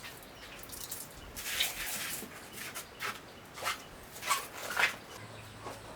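A dog making a series of short sounds, about five over a few seconds.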